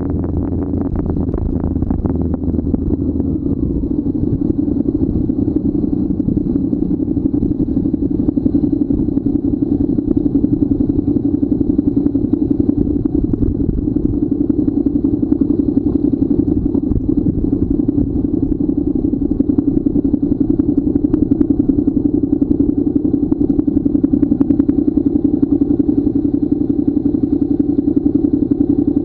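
Motorcycle engine running steadily under way, with a dense even pulsing and no big changes in pitch.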